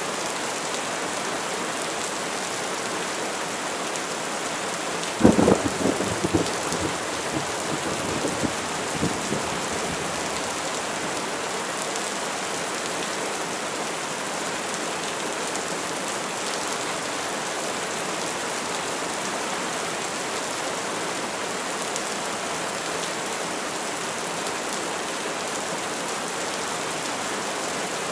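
Steady heavy rain falling. About five seconds in, a sharp crack of thunder rumbles on with a few smaller cracks for about four seconds.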